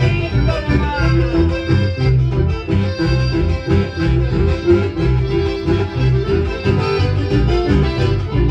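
Live band music with a steady bass beat and accordion lines, played over a PA system.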